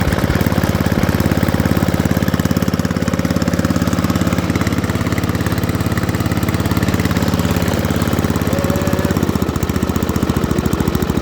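Ariens ST504 snowblower's 5 hp Tecumseh single-cylinder engine running steadily at half throttle, a fast even firing beat, warming up just after a cold start with the choke just turned off. Its note shifts slightly about nine seconds in.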